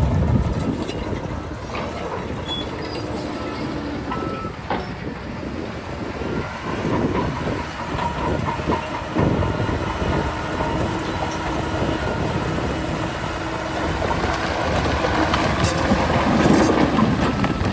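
Heavy earthmoving machinery running, with repeated metallic clanking and brief squealing, growing louder toward the end.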